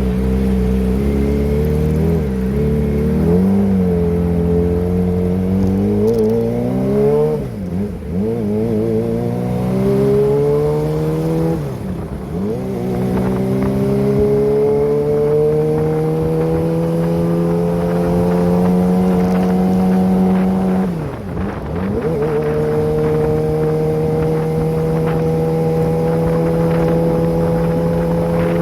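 Kawasaki ZX-25R's inline-four engine through a Prospeed aftermarket exhaust, pulling through the gears under way. The pitch climbs steadily and dips sharply at each upshift, three times: about 7, 12 and 21 seconds in.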